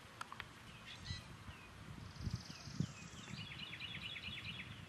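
Wild birds calling in woodland: a few short, falling chirps, then a quick run of chirps near the end. A high buzzing trill comes in the middle, with a few dull low thumps underneath.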